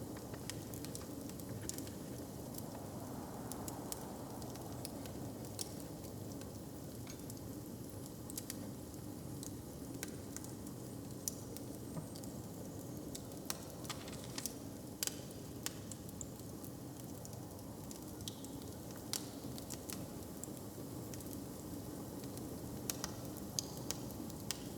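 Open fire crackling, with sharp pops and snaps scattered irregularly over a steady low rumble.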